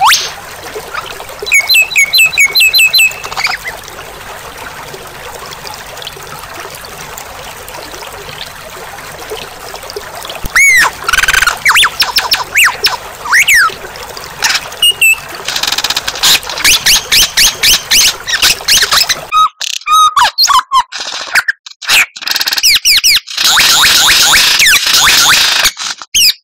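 White-rumped shama (murai batu) singing: a quick run of repeated notes near the start, then a quieter stretch of faint hiss, then loud whistled glides and, in the last third, dense fast chattering phrases broken by short pauses.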